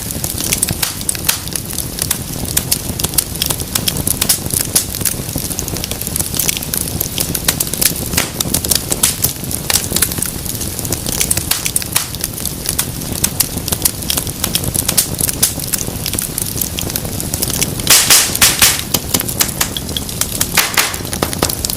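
Wood fire burning in a fireplace: dense, continuous crackling and snapping over a low rumble of flame, with a burst of louder pops about eighteen seconds in and another shortly before the end.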